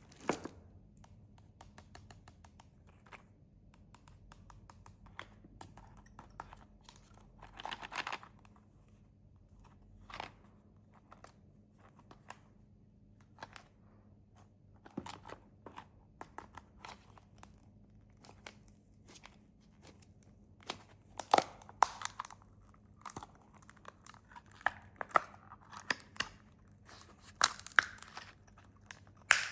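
Snack wrappers being crinkled and torn open by hand: many short crackles and rustles, sparse and soft at first, then denser and louder in the last third.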